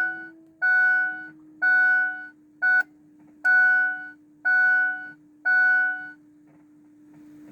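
Ford Super Duty dashboard warning chime at key-on: an electronic two-note chime about once a second, seven times, one cut short, then it stops. A faint steady hum runs underneath.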